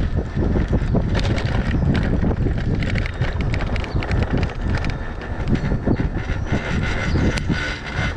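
Rented Veo electric bike rolling along pavement at speed, with a heavy low rumble of wind on the microphone and a steady run of rattles and clicks from the bike.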